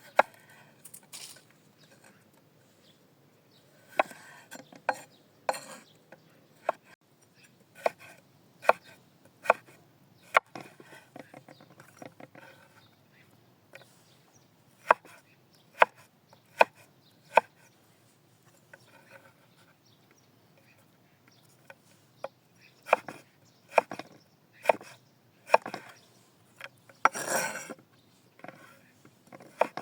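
Scattered sharp wooden knocks and clacks, coming singly and in short irregular runs with pauses between, typical of food preparation with hands and utensils on wood; a longer scraping rustle near the end.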